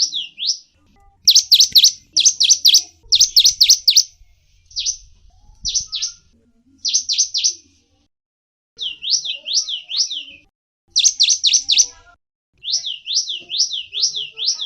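A small songbird singing quick phrases of four to six fast sweeping chirps, repeated again and again with brief pauses between phrases.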